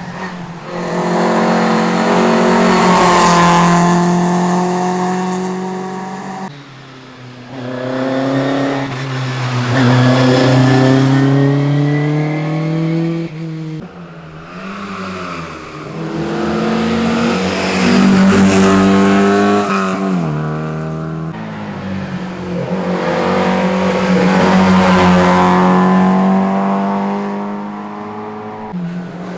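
Historic rally cars driven hard past one after another, engines revving high and rising in pitch, then dropping on gear changes and lifts, each swelling loud as it goes by.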